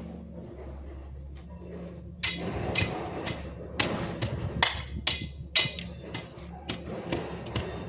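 A string of sharp, loud knocks or strikes starting about two seconds in, roughly two a second at uneven spacing, over a low steady hum.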